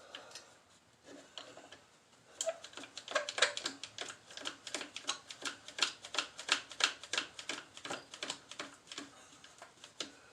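A clamp being tightened with a run of quick, sharp ratcheting clicks, about four to five a second. The clamp draws the parts together so that a spacer can fit over the shaft.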